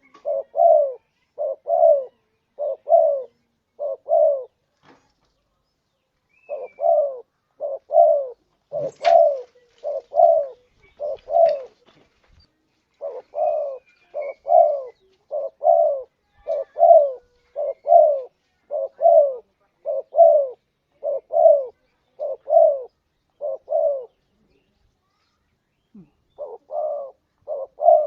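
Spotted dove (tekukur) cooing: a long run of short, evenly repeated coo notes. The run pauses briefly about five seconds in and again shortly before the end.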